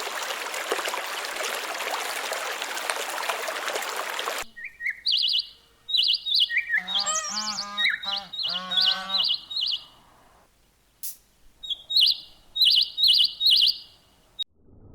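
Birds chirping: quick high calls repeated in runs, with a stretch of lower, richer calls in the middle. Before them, about four and a half seconds of steady rushing noise that cuts off suddenly.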